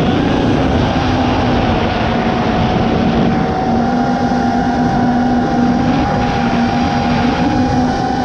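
FPV quadcopter's electric motors and propellers whining at a steady, nearly constant throttle, the pitch held level with only slight wobbles, over a rush of air noise.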